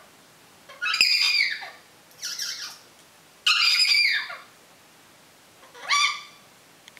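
African grey parrot giving four loud, high-pitched whistling calls with short pauses between them, most sliding down in pitch and the last sliding up.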